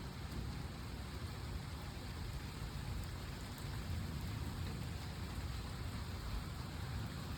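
Steady rain falling in a thunderstorm, an even hiss with a constant low rumble underneath and no sharp thunderclap.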